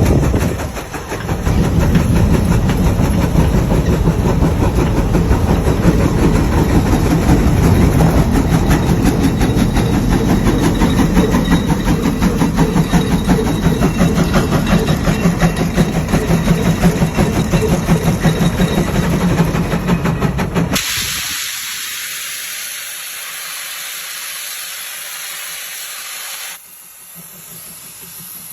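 Large farm tractor's diesel engine running with a dense, rapid pulsing rumble; it cuts off abruptly about three-quarters of the way through, leaving only a steady hiss that drops in level near the end.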